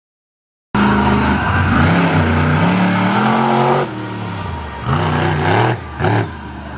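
Monster truck engine revving hard, cutting in abruptly under a second in, then easing off and blipped up twice more near the end.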